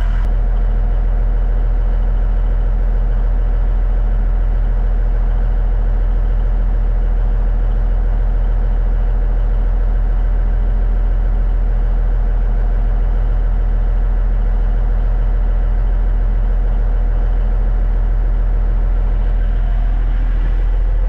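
1989 Kenworth K100E cabover truck's diesel engine idling steadily, a loud even low hum.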